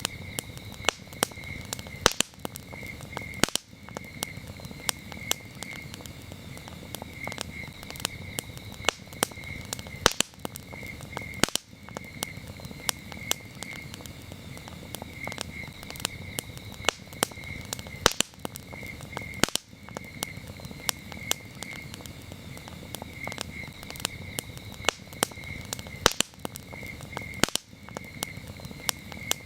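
Wood campfire crackling, with frequent sharp pops over a low steady rush of burning, and crickets chirping in short pulsed bursts throughout.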